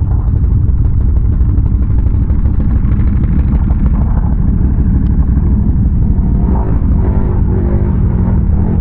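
ATV engine running under way, a loud steady rumble, with its pitch rising and falling a few times near the end.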